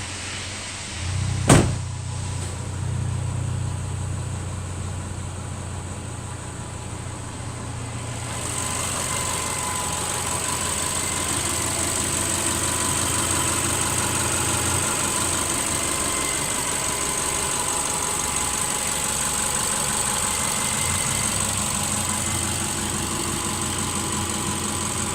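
Subaru Forester flat-four engine starting about a second in, with one sharp click as it catches, then idling steadily. A steady hiss joins the idle about eight seconds in.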